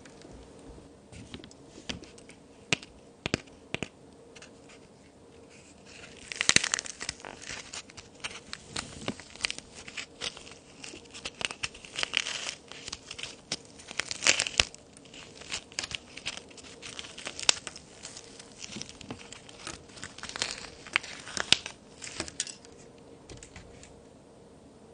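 Toy cookies made of plaster and clay being broken and crumbled: an irregular run of sharp cracks and crackling crumbles, thinning out near the end.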